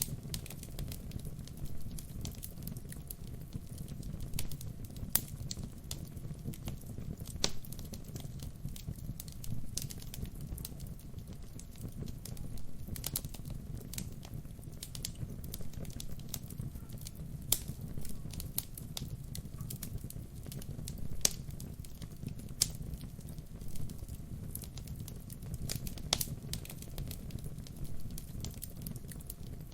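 Wood fire burning: a steady low rumble of the flames with irregular sharp crackles and pops from the burning logs.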